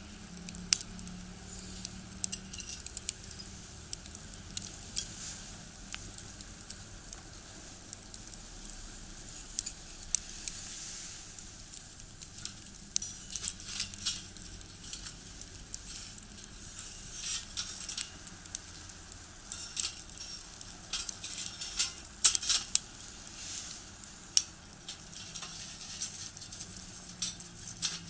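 Wood burning in a small box stove, crackling and popping with irregular sharp snaps that come thicker in the second half.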